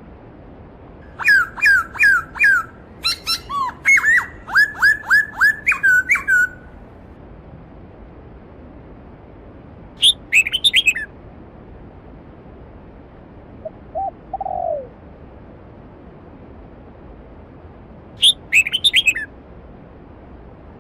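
A songbird sings a long phrase of quick, repeated down-slurred whistled notes, then two shorter phrases, over the steady rush of a valley stream. A single lower, softer call comes in the middle.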